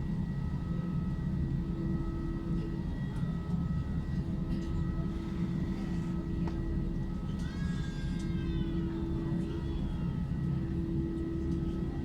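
Cabin noise inside an Airbus A320-232 with its IAE V2500 engines running: a steady low rumble under an even hum, neither rising nor falling.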